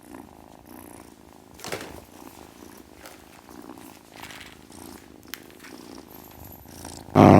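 Domestic cat purring softly and steadily, with a couple of faint clicks. Loud music starts suddenly near the end.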